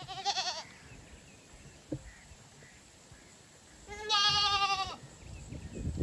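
Goat bleating twice: a short, wavering bleat right at the start and a longer, louder bleat about four seconds in.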